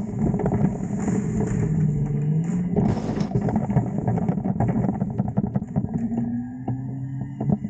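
Autocar garbage truck engine revving up and down to power the Heil front-loader hydraulics as a large dumpster is dumped, with dense metal clanking and banging throughout.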